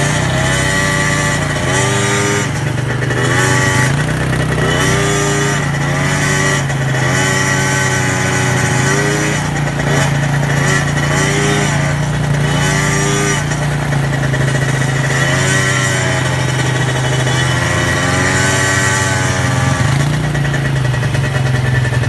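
Quad bike engines running: one revs up and down in pitch every second or two over a steady lower engine drone.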